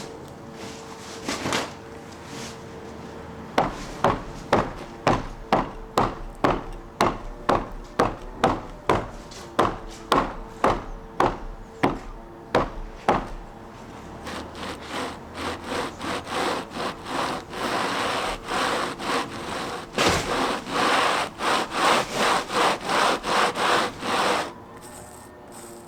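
Hand saw cutting through wood with steady back-and-forth strokes, about two a second; the strokes become longer and fuller about halfway through, then stop shortly before the end.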